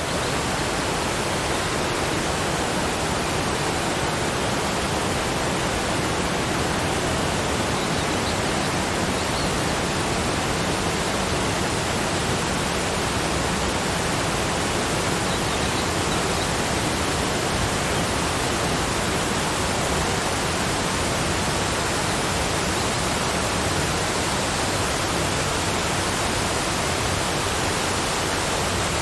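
Waterfall rushing: a steady, unbroken noise of falling water with no changes in level.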